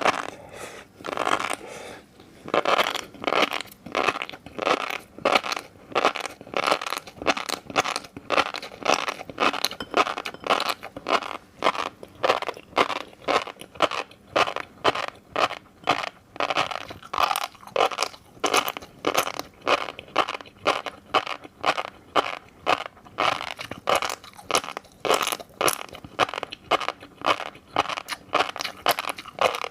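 Fish roe being chewed close to the microphone: crisp crunchy pops in a steady rhythm of about two to three a second.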